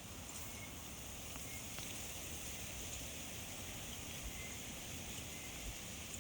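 Forest ambience: a steady high hiss with a few faint short chirps and light ticks.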